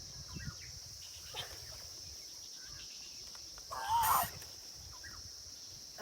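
Quiet outdoor ambience with a steady high insect hum, a few faint short sounds, and one brief call with a wavering pitch about four seconds in.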